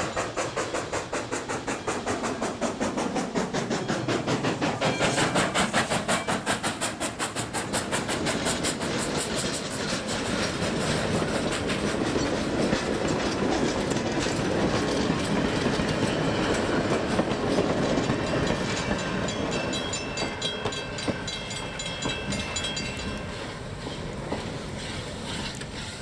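Steam-hauled train passing on a run-by: the locomotive's exhaust beats in a fast, even rhythm, followed by the cars clattering over the rail joints.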